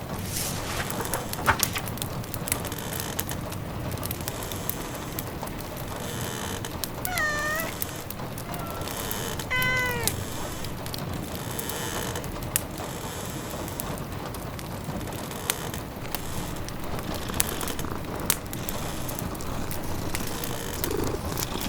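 A domestic cat meows twice, two short calls about two seconds apart, over the steady patter of rain and the crackle of a log fire.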